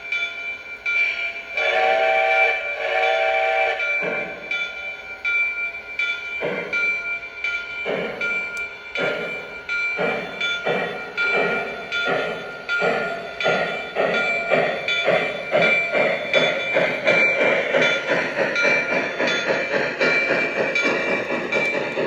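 Lionel Legacy O-scale consolidation (2-8-0) steam locomotive's onboard sound system: two short whistle toots, the signal to move off. Then the steam chuff starts slowly and quickens steadily as the model locomotive pulls away.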